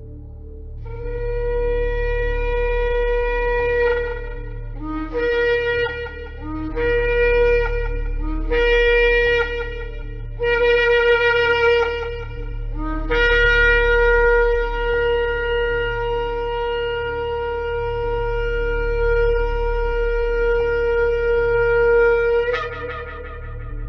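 Shofar (ram's horn) blasts. First comes a long held note, then four shorter blasts that each begin on a lower note and jump up, then a very long held note that breaks upward near the end. A steady low hum runs underneath.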